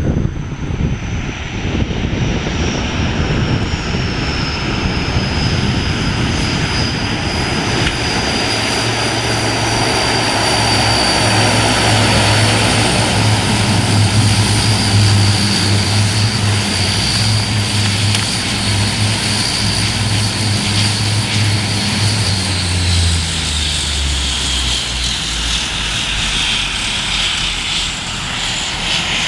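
Aircraft engines running loudly and steadily, with a low hum and a high whine that both drop in pitch about 22 seconds in.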